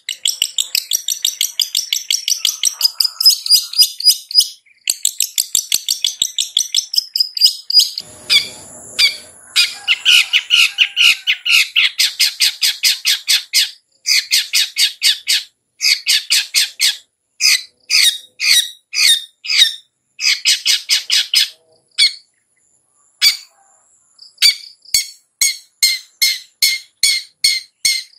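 Long-tailed shrike (cendet) singing: a loud, fast chatter of sharp, high repeated notes, breaking off briefly a few times and ending in a slower, evenly spaced run.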